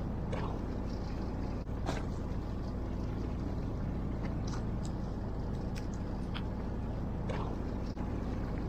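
Fishing boat's engine running steadily with a low hum, with a few faint clicks and knocks.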